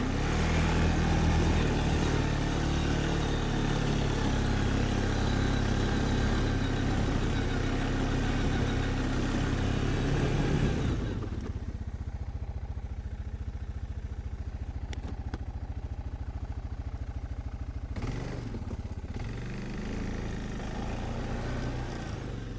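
Off-road vehicle engine run hard under throttle for about eleven seconds while churning through snow, then dropping to a lower, steady running speed with a couple of brief throttle rises near the end.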